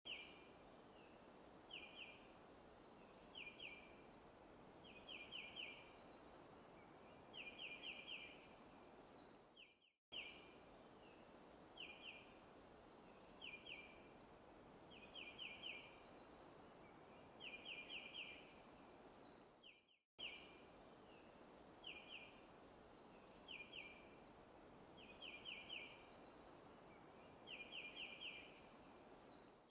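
Faint forest ambience with a bird chirping in quick clusters of one, two, three and then four notes over a steady soft hiss. The recording loops about every ten seconds, with a brief dropout at each restart.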